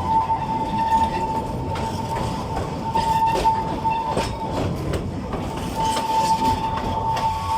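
Narrow-gauge forest railway train hauled by an Mk48 diesel locomotive running along the track, with wheels clicking over rail joints under a steady rumble. A steady high-pitched squeal runs over it and breaks off for about a second midway.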